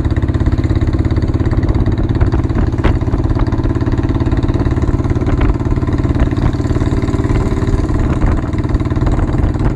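1990 Royal Enfield Bullet 350's single-cylinder four-stroke engine running steadily with an even, pulsing beat, heard raw through its exhaust.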